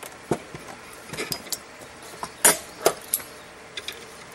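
Steel parts knocking together: a rod and a railroad-spike knife handled against metal, giving about six sharp ringing clinks, the loudest about two and a half seconds in.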